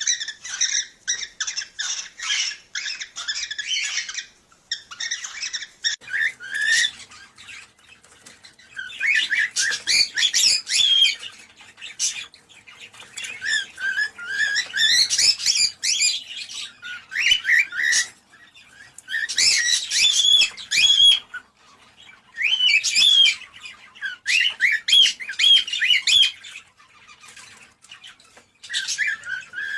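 Cockatiels chirping and warbling in quick runs of notes, in bouts of one to four seconds with short pauses between them. These are cockatiel calls of the kind played to stimulate pairs to breed.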